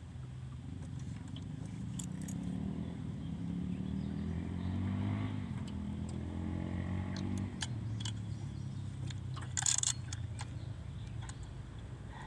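An engine passing by, its low drone growing louder to a peak and then fading away. A short sharp rattle comes near the end.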